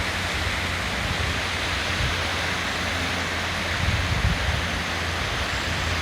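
Steady rush of the Katsura River running high and fast in flood after heavy rain, with a low steady hum underneath.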